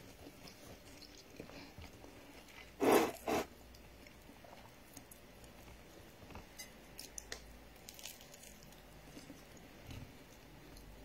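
A person biting into and chewing bread and fried akara (bean fritters), with small crunching clicks from the mouth. Two short, louder noises come about three seconds in.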